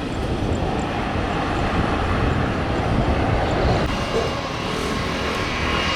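Airliner jet engines running with a deep, noisy rumble; about four seconds in, steady whining tones from the engines join in.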